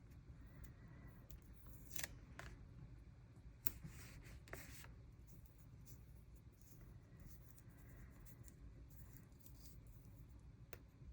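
Faint paper handling: a few soft rustles and light clicks as small paper stickers are peeled and pressed onto a journal page, over a low room hum.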